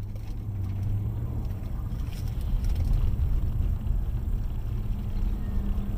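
A vehicle driving: low, steady engine and road rumble that gets a little louder about two seconds in.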